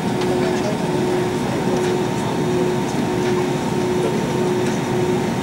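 Steady cabin noise inside an Airbus A320 before takeoff: an even rush of air-conditioning and engine noise, with a low tone pulsing on and off a little more than once a second and faint passenger voices.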